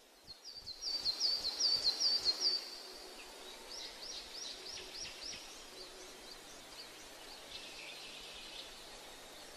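Birds calling: a quick run of about eight high, hooked chirps in the first few seconds, then a string of quieter downward-sliding notes and scattered calls, over a steady outdoor hiss.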